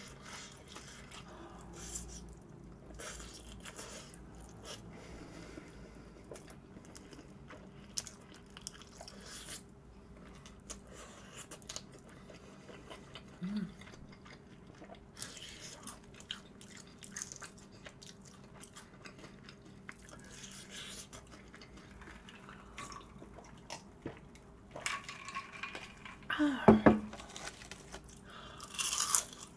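Close-miked chewing and crunching of fried chicken with a crisp coated crust, with a couple of brief hums. The loudest crunchy bites come near the end.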